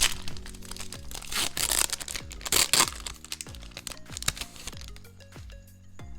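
Trading-card packaging crinkling loudly in rustling bursts for about the first three seconds, then easing off, over background music with a steady beat.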